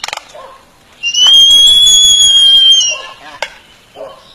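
A bird giving one long, clear whistle for about two seconds, starting about a second in, its pitch rising slightly and falling again at the end, with short chattering clicks before and after it.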